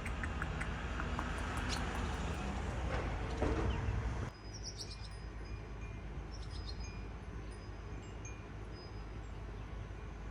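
Rough rustling noise with scattered clicks for about four seconds, then a sudden change to a steadier low background with short, high bird chirps coming now and then.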